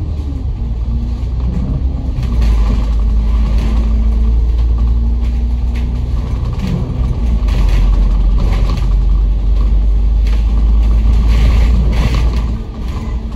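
Bus engine and drivetrain running under way, heard from inside the cabin: a steady low rumble, with an engine note that rises and falls as the bus pulls and eases off.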